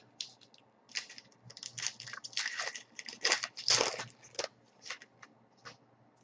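Hockey card pack wrapper crinkling as it is torn open, a run of irregular crackles over a few seconds, with a few lighter rustles after.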